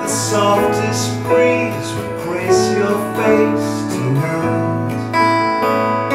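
Acoustic guitar strumming chords with piano. A melody line moves over the chords for the first few seconds.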